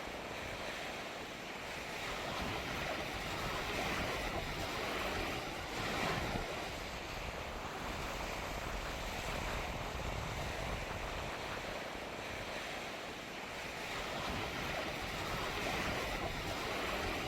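Strong wind blowing over a sandy beach, with small waves washing on the shore and gusts buffeting the microphone, a steady rushing noise.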